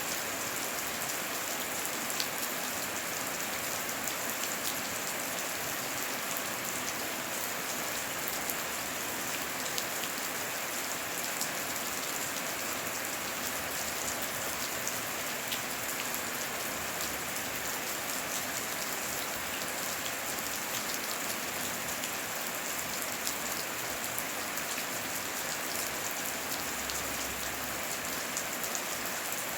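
Steady rain falling, with many separate drops ticking through an even hiss.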